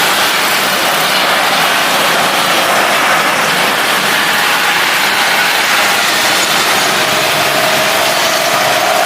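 Jet airliner engines running on approach: a loud, steady rush of noise with a faint whine that rises slightly near the end.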